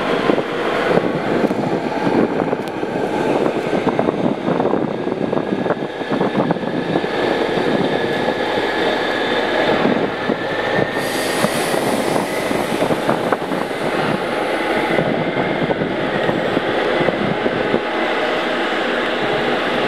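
Passenger train departing through the station tracks: a steady rolling rumble with many sharp clicks of wheels over rail joints and points. A faint whine rises slowly in pitch through most of the stretch as the train picks up speed.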